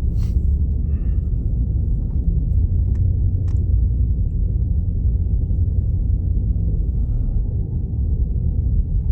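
Steady low rumble inside a Jeep Grand Cherokee's cabin as it drives over a rough, snow-covered parking lot, with engine and tyre noise together. A low engine hum under it drops away about seven seconds in.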